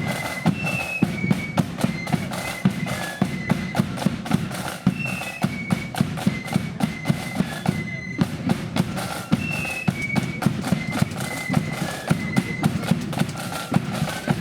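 Marching flute band playing a tune on high flutes over snare and bass drums beating a steady march rhythm. The same short melodic phrase comes round again about every four seconds.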